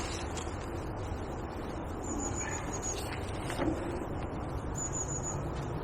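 A small bird repeating a short, high, quick trill of about six notes, three times, over steady outdoor background noise.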